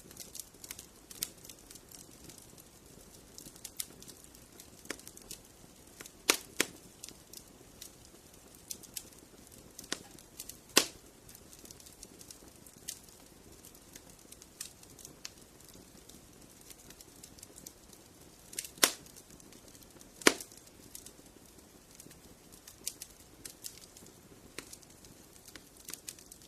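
Fire crackling in a fireplace: a steady run of small sharp crackles over a faint low hiss. A few louder pops stand out: two close together about six seconds in, and single ones around eleven, nineteen and twenty seconds.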